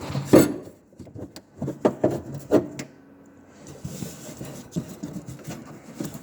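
Knocks, clicks and rubbing of the door lock mechanism being worked loose inside a car door. The loudest knock comes about half a second in, a quick run of knocks follows around two seconds in, and softer scraping goes on after.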